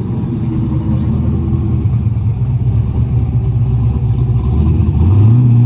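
Car engine running at a steady idle, then revving up briefly near the end.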